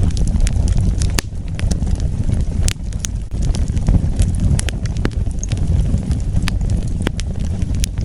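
Wood fire burning: a steady low rumble of the flames with irregular sharp crackles and pops from the burning logs.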